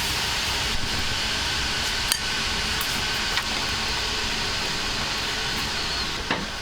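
Food frying in a hot pan, a steady sizzle with a few sharp clinks of a utensil against the metal; the sizzle eases slightly near the end.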